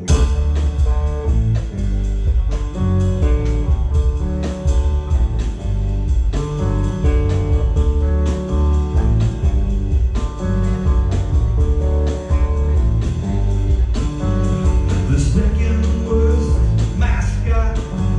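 Live band kicking into a bluesy rock song right on the count-in: guitar, bass and drums playing at a steady beat.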